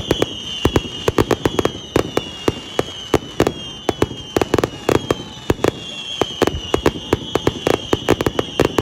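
Aerial fireworks firing a rapid volley: sharp bangs and pops several times a second, over overlapping whistles that slide slightly down in pitch.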